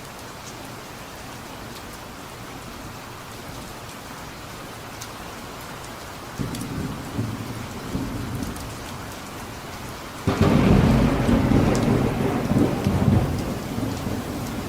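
Steady rain falling, with thunder: a low rumble begins about halfway through, then a louder clap of thunder breaks in suddenly and rolls on, slowly fading.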